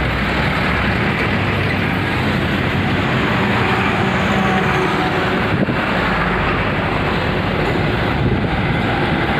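Steady, loud rushing engine noise that holds level, with no rise or fall.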